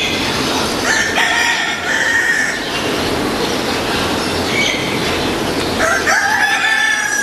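Rooster crowing twice, each crow a long pitched call of about a second and a half, over a steady noisy background.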